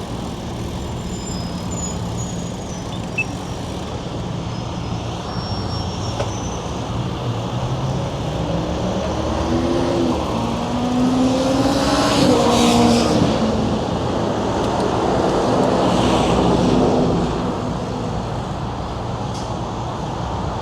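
City road traffic heard from a bicycle, with a steady low rumble. A motor vehicle's engine rises in pitch as it accelerates, passing loudest about twelve seconds in, and another vehicle goes by a few seconds later.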